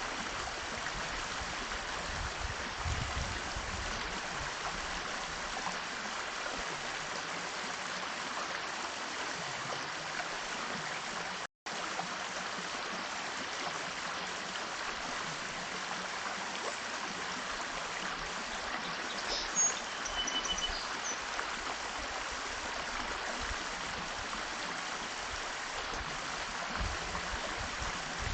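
Steady rushing noise like running water, which cuts out for an instant near the middle. A few short, high bird chirps sound about two-thirds of the way in.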